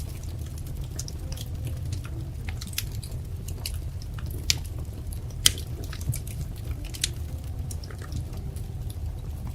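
Wood fire crackling: scattered sharp snaps and pops, two louder ones about halfway through, over a steady low rumble of the burning fire.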